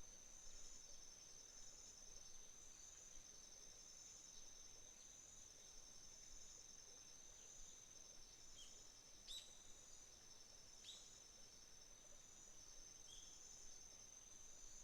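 Faint chorus of crickets and other autumn insects: one steady high-pitched trill under a second pulsed trill that comes in repeating phrases of about a second. A few short, high chirps cut in around the middle.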